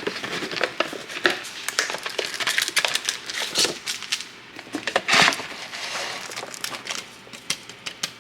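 Crinkling and crunching of an instant ramen packet being handled and opened, a run of irregular crackles with a louder crunch about five seconds in.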